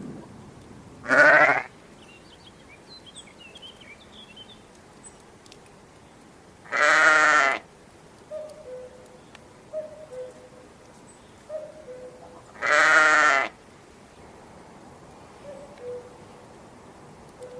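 Bleating: three loud, quavering calls, a short one about a second in and two longer ones of about a second each, with faint bird chirps between them.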